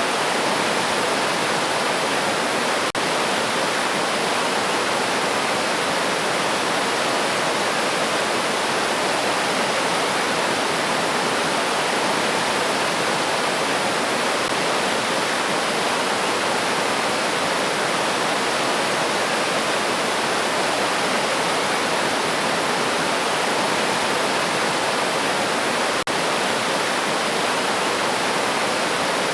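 River water rushing steadily over rocks, an even, unbroken sound with no birdsong standing out.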